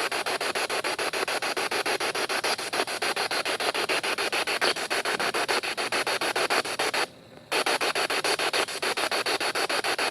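SB7 spirit box sweeping through radio stations in reverse: a steady rush of static chopped into rapid, even clicks, cutting out briefly about seven seconds in.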